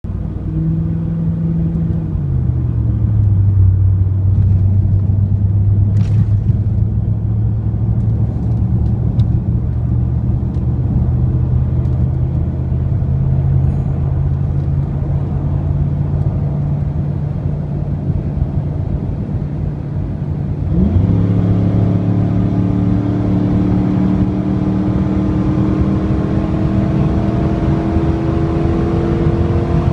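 2002 Camaro SS's 5.7 L LS1 V8 exhaust: an early drop in revs, then a long steady run at low revs. About two-thirds of the way through it is floored, the note jumps and then climbs steadily under hard acceleration.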